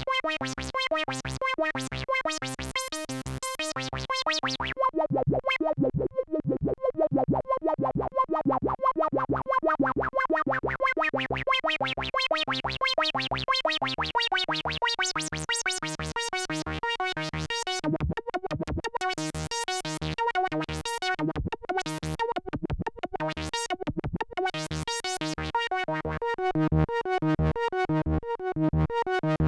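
Korg Minilogue analog synthesizer running its built-in arpeggiator: a fast, even stream of repeating notes. The tone brightens and dulls several times as the sound sweeps open and closed.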